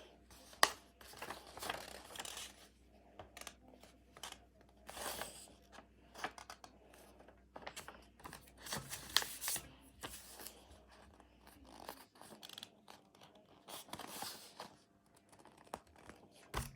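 A sheet of paper being folded in half and creased by hand: irregular rustling and scraping strokes as fingers press along the fold, with a sharp tap under a second in.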